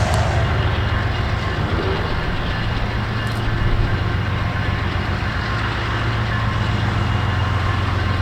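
A train running past on the track: a steady, loud rumble of wheels on rail with a low engine hum underneath.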